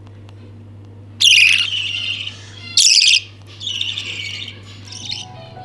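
Budgies calling in four loud bursts of high chirping, over a low steady hum. Music comes in near the end.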